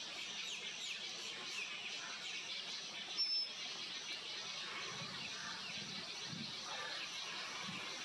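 Chorus of small songbirds chirping and calling, many short high notes overlapping, with one brief, louder high whistle about three seconds in.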